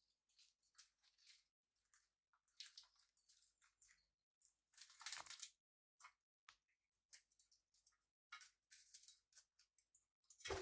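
Faint, scattered small clicks and scratchy rustles from caged pet birds moving and pecking, with one louder scratchy rustle about five seconds in and a knock at the very end.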